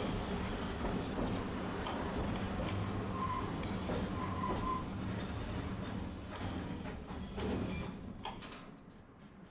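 Tosaden tram running on street track: a steady rumble of motor and wheels on rail, with a few short squeals. It dies down near the end as the tram slows.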